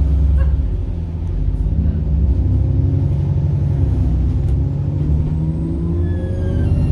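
Bus diesel engine running with a steady low rumble; about five and a half seconds in, a high turbocharger whine joins it, shifting in pitch.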